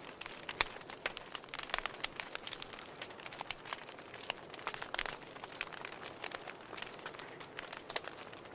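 Wood fire burning in a fireplace: a dense, irregular crackling of sharp pops and snaps over a soft steady hiss.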